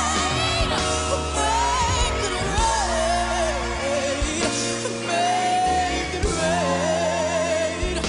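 A female lead vocalist sings with strong vibrato and melismatic runs over a full backing band, holding long notes about five and about seven seconds in.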